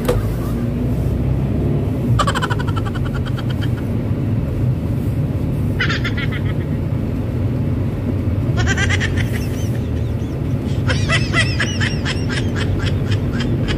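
Steady low rumble of a car driving, heard from inside the cabin. Four short bursts of a rapid, buzzy chattering sound come over it, the longest near the end.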